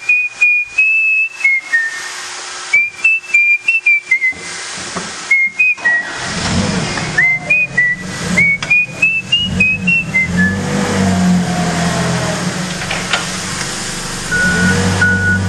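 A person whistling a tune, note by note with short breaks, for about ten seconds. Partway through, a vehicle engine starts running, and near the end a reversing beeper begins sounding.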